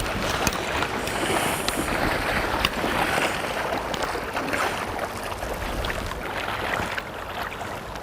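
River water splashing and sloshing close by, with wind rumbling on the microphone.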